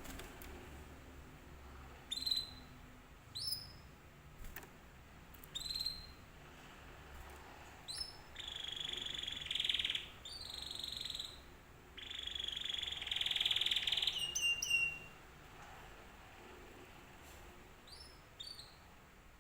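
Domestic canary calling with short, sharp rising chirps every second or two. In the middle it sings two rolling trilled phrases, the second longer and ending on a falling note.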